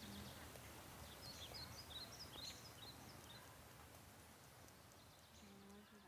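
Faint outdoor ambience with a few quick, high bird chirps about one to three seconds in.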